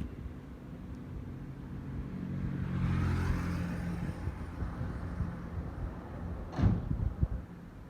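Keikyu electric train running past: rumble and a steady motor hum swell to a peak about three seconds in, then fade. A sharp thump follows near the end.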